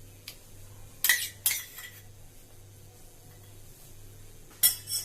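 A spoon knocking and scraping against a dish while ginger garlic paste is added to the chicken wings: a couple of sharp clinks about a second in, then another near the end.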